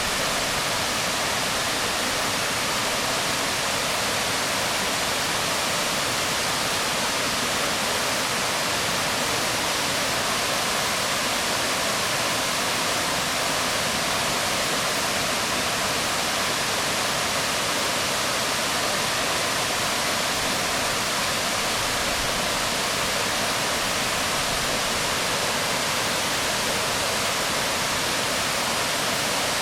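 Waterfall splashing onto rocks: a steady, unbroken rush of falling water.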